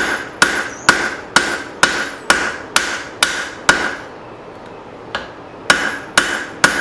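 Forging hammer striking hot leaf-spring steel on an anvil: steady blows about two a second, each followed by a short ring. The hammering pauses for about a second and a half near the middle, with one light tap, then picks up again.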